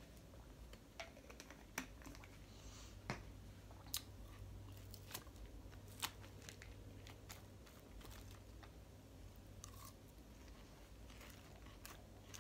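Faint chewing and crunching of salad with croutons, with scattered light clicks and scrapes of a plastic fork in a plastic salad bowl, over a low steady hum.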